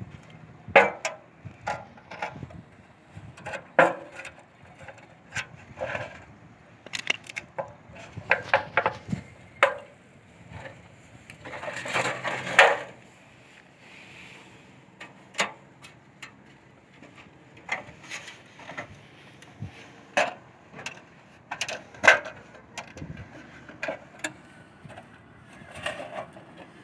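Irregular clicks and knocks of hard objects being handled, with a short denser scraping stretch about twelve seconds in.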